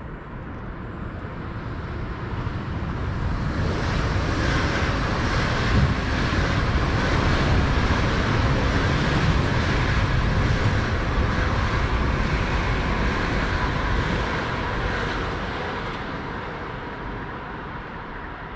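Deutsche Bahn express train passing beneath on the tracks. Its rumble and rail noise build over the first few seconds, stay loudest through the middle, then fade as it runs off into the distance.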